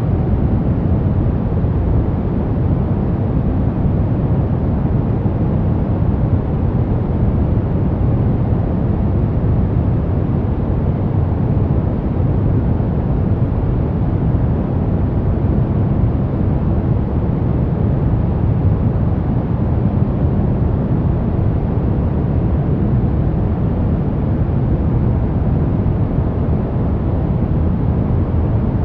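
Steady, unchanging noise track sold as white noise for sleep, heavier in the deep end than the treble, so it sounds like a deep, even hiss-rumble.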